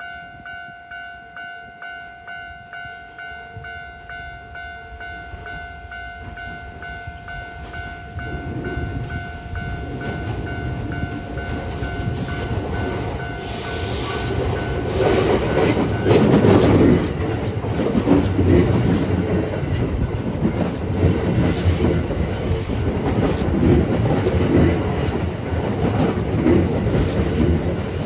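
A Japanese level-crossing warning bell rings with a steady two-tone pulse about twice a second as a Kintetsu 1252-series and 8A-series electric train approaches. The train noise of wheels on rails builds and is loudest about halfway through, covering the bell.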